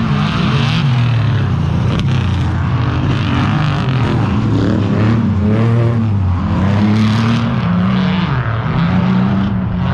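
Off-road desert race truck engine running hard, its pitch rising and falling repeatedly as the driver works the throttle and gears, over a steady rush of noise.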